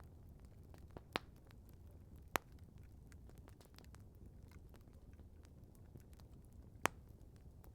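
Campfire crackling softly: scattered small ticks with three sharp pops, the last near the end, over a faint low rumble.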